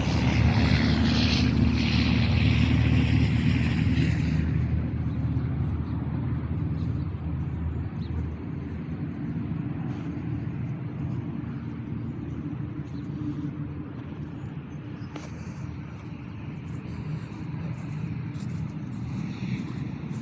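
A low, steady engine drone, loudest at first and slowly fading away.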